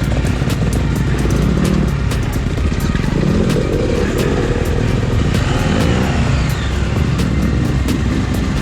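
KTM 890 Adventure R's parallel-twin engine running under way, its revs rising and falling in the middle stretch, with frequent sharp ticks throughout.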